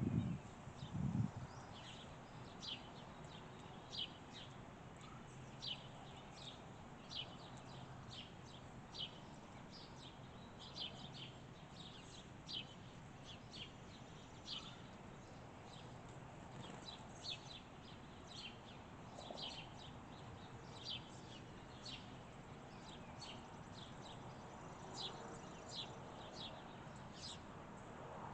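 Small birds chirping with short, sharp high notes, roughly one or two a second, over a faint steady background. There is a low thump just after the start.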